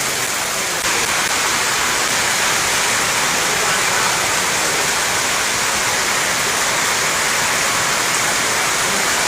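Steady, loud rain falling, an even hiss of water.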